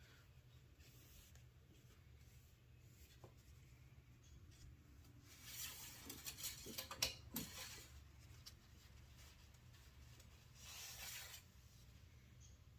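Mostly near silence, broken by faint handling sounds: a quick run of clicks and scrapes about halfway through and a brief rub near the end, as the engine oil dipstick is pulled and wiped to check the oil level.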